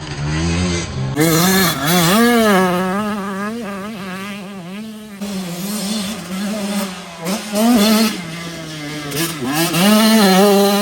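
Motocross dirt bike engine at full race pace, its pitch rising and falling over and over as the rider throttles on and off, with deeper dips around the middle and near the end.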